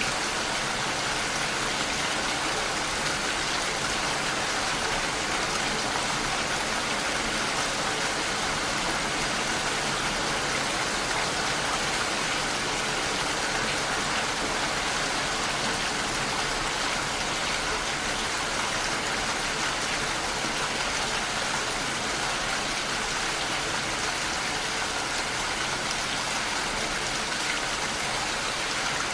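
Steady rain pattering against a window pane, an even hiss with no pauses.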